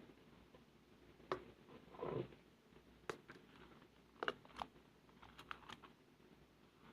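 Slime being squeezed and worked by hand: faint, scattered small clicks and pops, with a short squish about two seconds in.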